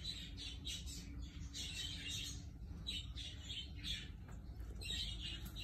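Budgerigars chirping and chattering, a quick stream of short high chirps.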